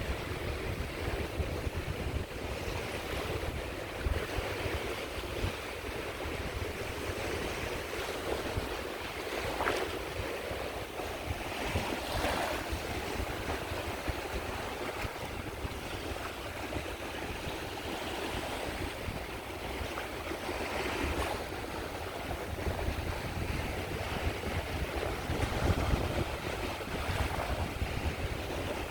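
Sea waves washing onto a shore: a continuous surf wash that swells several times as waves break, with wind rumbling on the microphone.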